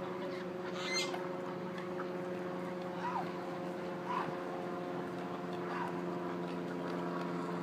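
Ducks and geese giving a few short, separate calls over a steady low mechanical hum.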